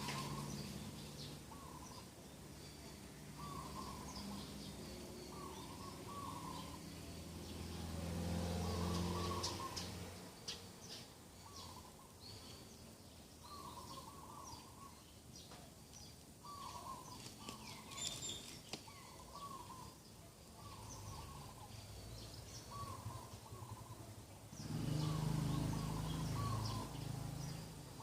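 Morning birdsong: one bird repeats a short mid-pitched call, often in pairs, every second or two, while other birds chirp higher up. A low hum swells twice, about nine seconds in and near the end.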